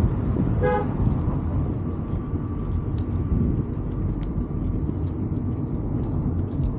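A short single vehicle horn toot a little under a second in, over a steady low rumble of wind and riding noise.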